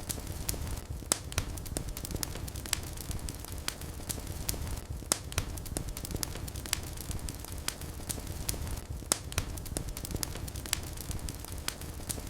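Wood fire in a fireplace burning with a steady low rumble and irregular crackles and sharp pops, a few of them louder.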